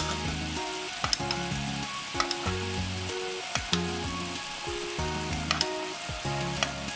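Soy sauce and sugar glaze sizzling and bubbling around pieces of fried chicken in a rectangular tamagoyaki pan, with a few sharp clicks, under background music.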